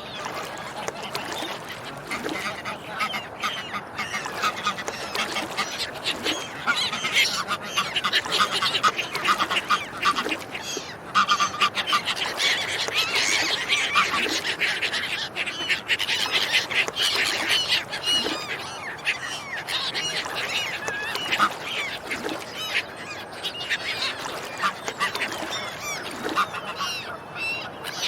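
Swans and ducks calling continuously, many honks and quacks overlapping, busiest through the middle.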